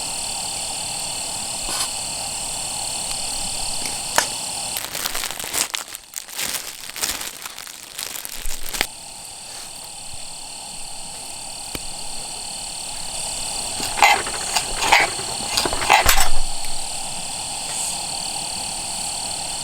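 A steady outdoor chorus of calling animals holding several high tones, broken by sharp cracks and clicks about five seconds in and again near the end.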